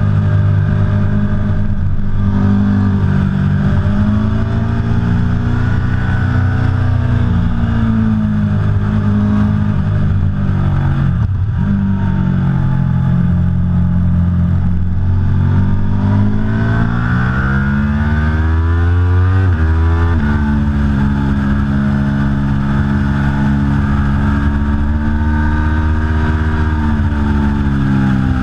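Aprilia Tuono V4 Factory's V4 engine under hard riding. The revs climb and fall through the gears, dropping sharply about eleven seconds in and changing gear abruptly near the twenty-second mark.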